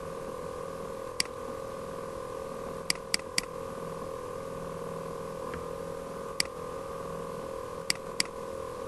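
Steady electrical hum from the recording setup, with about seven sharp computer mouse clicks. Three come in quick succession about three seconds in, and two close together near the end.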